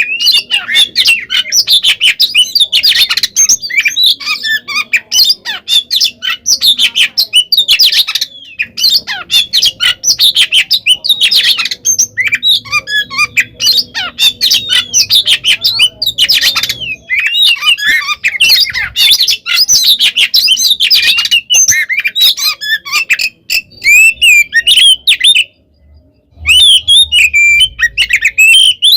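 Oriental magpie-robin (kacer) singing a long, unbroken, fast-varied song of whistled glides mixed with harsh chattering notes, with one short pause near the end. This is the non-stop, aggressive fighting-mood song.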